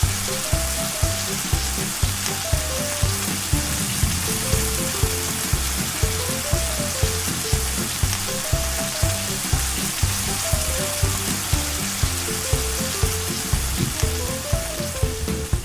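Steady hiss of falling rain under background music with a bass line, a stepping melody and a regular beat.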